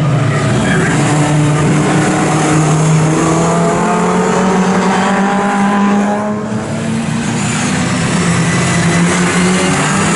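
Historic touring-car racing engines running hard, their pitch sliding up and down with revs and gear changes. The sound dips briefly a little past halfway.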